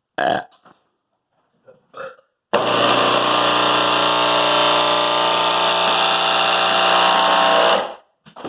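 Loudspeaker driver connected directly to mains power, blaring a loud, steady AC hum for about five seconds before cutting off suddenly as one of its voice coils burns out. Two brief sounds come before it.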